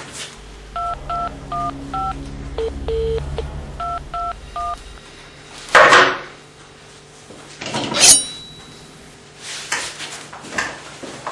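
Telephone keypad tones: a string of short two-tone dialing beeps, four and then three after a pause, over a low hum. Two loud sudden noises follow about two seconds apart.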